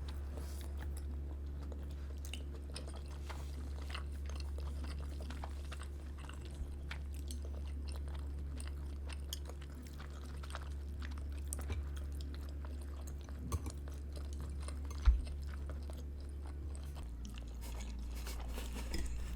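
Close-miked chewing and biting of food, with many small wet and crunchy mouth clicks scattered through, over a steady low hum. A single sharp knock about fifteen seconds in.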